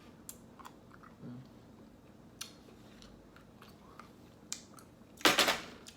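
Close-miked eating of ice cream with a chocolate coating: scattered small wet mouth clicks and smacks while chewing, then one loud crunching bite lasting about half a second, a little after five seconds in.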